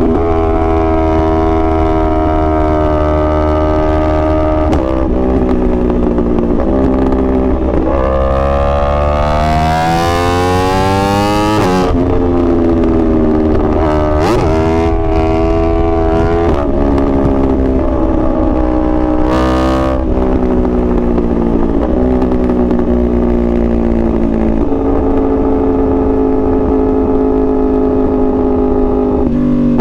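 2021 Yamaha R1's crossplane inline-four running under way, holding steady revs with several sudden drops in pitch at gear changes. About eight seconds in it winds up in one long rising pitch under hard throttle, then drops sharply at a shift near twelve seconds. A shorter rev rise comes near twenty seconds.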